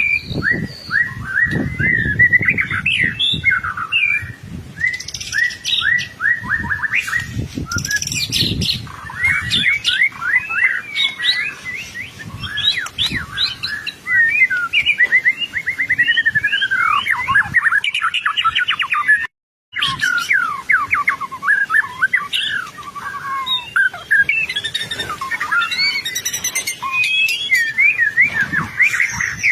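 White-rumped shama (murai batu) in full song: a continuous, rapid, varied stream of whistles and fast trills. The song breaks off completely for a split second about two-thirds of the way through.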